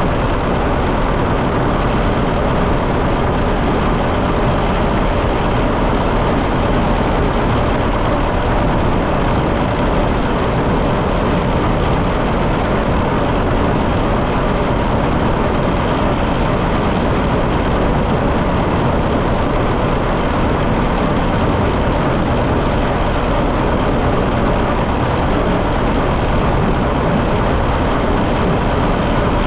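John Deere 730 two-cylinder tractor engine running steadily while driving down the road, a loud, even, unchanging engine sound.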